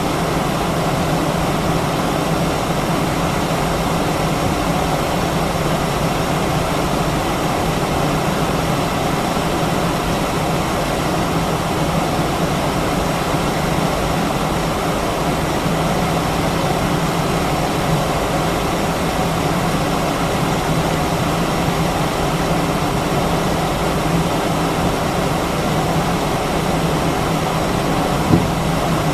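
Steady cabin noise inside an Airbus A319-132: an even hiss with a constant low drone that does not change, and a brief knock near the end.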